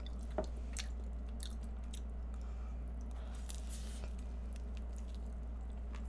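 Biting and chewing of an egg tart with flaky, layered pastry: small sharp crackles of the crust, with a crisper rustling stretch a little past three seconds in. A steady low hum runs underneath.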